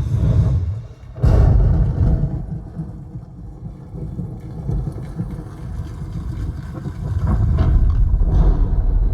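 Bass-heavy music played through a car audio system, the deep subwoofer bass dominating, with a sudden break about a second in before the bass comes back hard.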